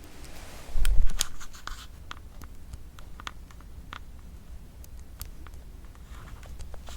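Crispy toasted salad bread bitten with a loud crunch about a second in, then scattered crackling crunches as it is chewed.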